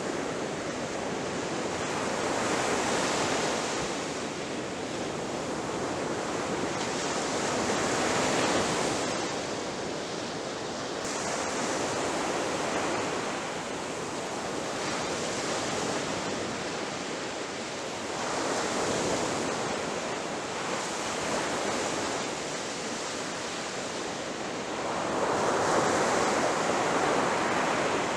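Sea waves breaking on a shore: a continuous rush of surf that swells and eases every few seconds, with the strongest wave near the end.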